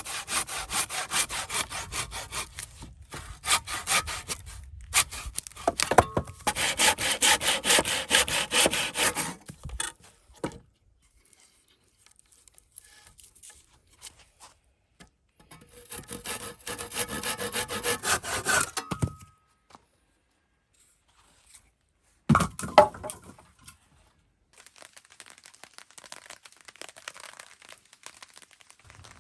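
Hand saw cutting through wood in quick back-and-forth strokes, in two bouts with a pause between. A single sharp knock follows about three-quarters of the way through.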